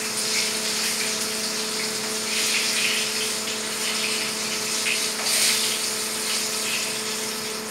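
Egg-coated pieces frying in hot oil in a pan: a steady sizzle with scattered crackles, over a steady low hum.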